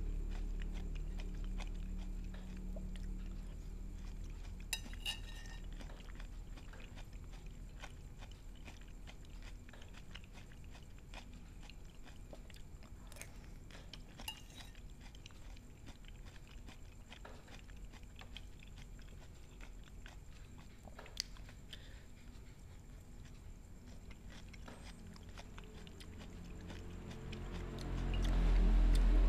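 Someone eating soft boiled cucumber with a spoon: faint chewing, with a few light clicks of the metal spoon against a ceramic plate. Background music fades down at the start and swells back up near the end.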